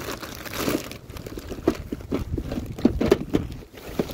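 Plastic trash bag crinkling and rustling as its contents are rummaged through, with irregular small knocks and clicks from the items inside.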